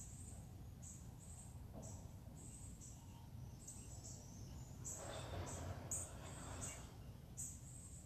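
Outdoor nature ambience: short high-pitched chirps repeating about once or twice a second over a low steady rumble, with a louder rushing noise for a second or two past the middle.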